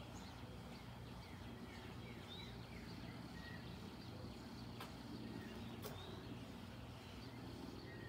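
Faint, short bird chirps scattered over a steady low background hum, with two soft clicks about a second apart near the middle.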